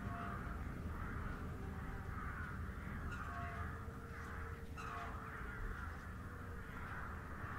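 Faint harsh bird calls in the background, repeating about once a second over a low room hum.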